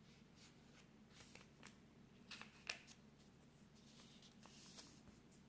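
Faint rustling and soft ticks of a sheet of printer paper being folded corner to corner and creased, with a couple of slightly louder taps about halfway through.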